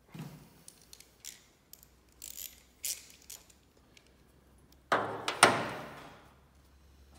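Clicks and knocks of metal headlamp parts being handled and fitted, with two louder clunks about five seconds in.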